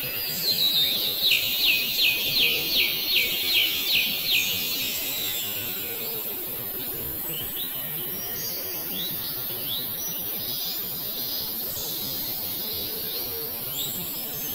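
A bird calling from the trees, a quick series of short falling high notes, about three a second for a few seconds, then fainter scattered calls, over the steady murmur of a crowd.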